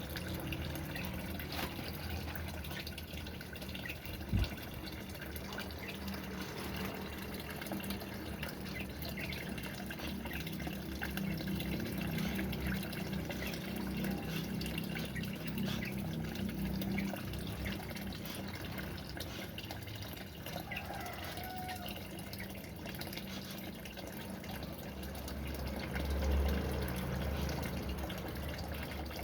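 Water running and dripping steadily, with one sharp knock about four seconds in.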